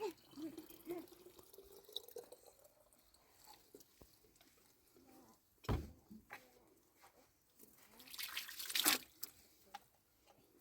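Sheep being hand-milked: irregular squirts and drips of milk into a pail, with a sharp knock about six seconds in and a louder rush of squirts near the end.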